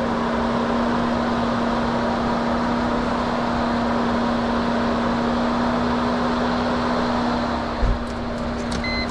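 A 2004 Chrysler Crossfire's electric fan runs steadily with the ignition on in a car that will not crank, making a constant hum over a rush of air. Near the end there is a low thump and two short electronic beeps.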